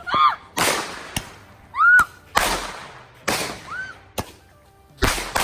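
Fireworks going off: four loud blasts, each trailing off over about a second, with sharp cracks in between.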